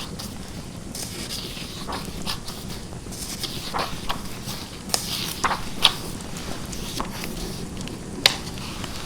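Fire crackling, with irregular sharp pops and snaps over a steady low hum; the sharpest pop comes about eight seconds in.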